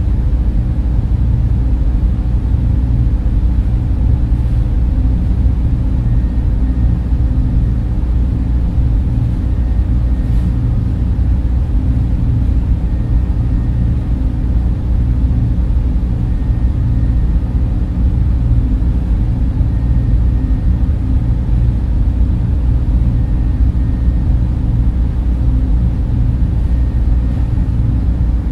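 Server room cooling fans running continuously: a deep, even drone with a faint steady whine above it.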